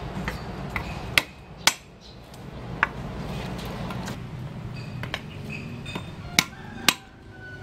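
Five sharp knocks of kitchen utensils striking hard surfaces, two close together about a second in, one near three seconds, and two more close together near the end, over a steady low hum.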